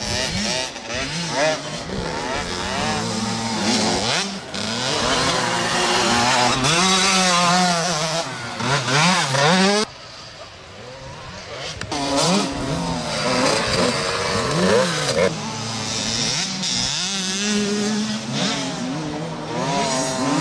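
Several motocross bikes racing, their engines revving up and down through the gears with pitch rising and falling, several at once. The sound drops off suddenly about halfway through, then engines build back up again.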